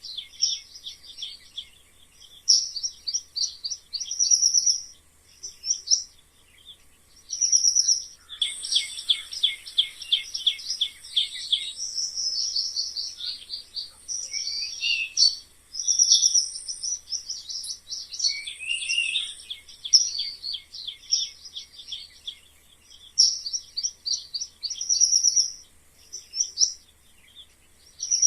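Mice squeaking: rapid trains of short, high-pitched chirps in bursts lasting a second to a few seconds, one burst after another with brief pauses between.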